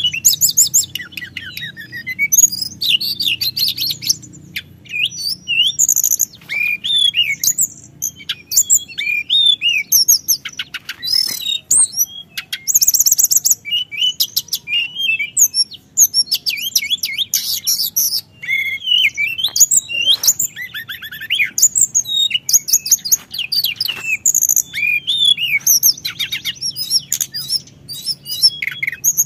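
A teledekan gunung (Sunda blue robin) singing non-stop in quick, varied phrases of high whistles, chirps and rolling trills, with hardly a pause between phrases.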